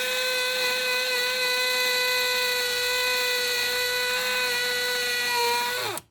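Electric drill running at a steady high pitch into a very hard wall, making little headway, then winding down and stopping near the end.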